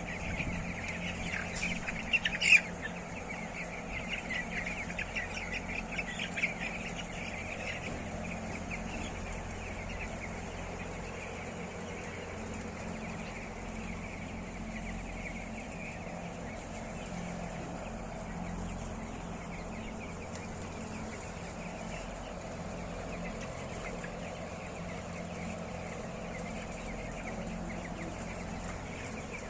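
A large flock of chickens in a poultry house, a dense mass of chattering and clucking. It is busiest in the first several seconds, with one sharp, louder call about two and a half seconds in, then settles to a steady murmur of birds over a constant low hum.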